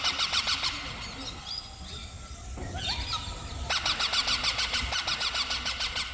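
Parrot giving rapid series of shrill squealing calls, about ten a second: one burst at the start and another from about three and a half seconds in, with fainter single calls between.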